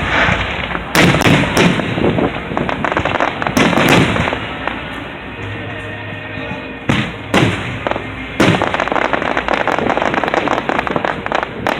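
Aerial fireworks exploding: separate booms in pairs and singles that echo, then a dense run of crackling in the last few seconds.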